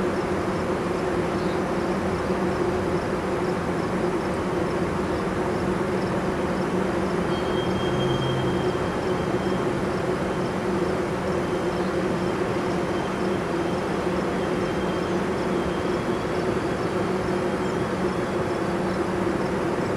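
Distant maintenance-of-way train of yellow track machines, a Plasser 09-16 Dyna-Cat tamper among them, moving slowly: a steady rumble with a low engine hum. A faint thin squeal comes in about seven seconds in.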